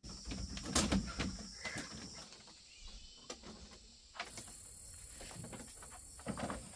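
Outdoor ambience with a faint steady insect drone, broken by scattered light knocks and rustles; one of the knocks comes about four seconds in.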